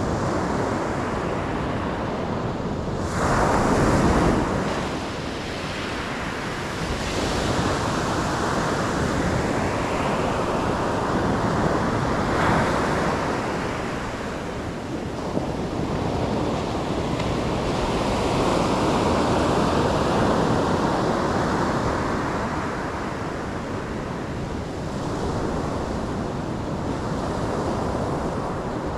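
Ocean waves breaking and washing on a shore, the surf swelling and ebbing every several seconds, the strongest surge about three seconds in. Wind noise on the microphone runs underneath.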